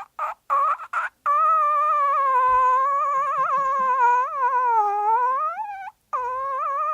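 A man imitating a bird with his voice: a few short high squawks, then one long high wavering screech held for about four and a half seconds, then another starting near the end.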